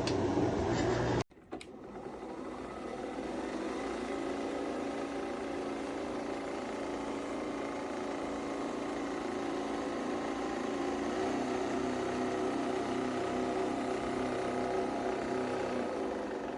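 Small kitchen-appliance motor running with a steady whir and hum. A louder machine sound cuts off abruptly about a second in, and then the steady whir runs on.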